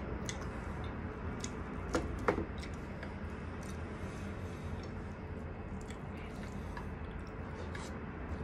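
Close-up eating sounds: grilled chicken being pulled apart by hand and chewed, small wet squishes and soft ticks over a steady low hum. Two sharper clicks come about two seconds in.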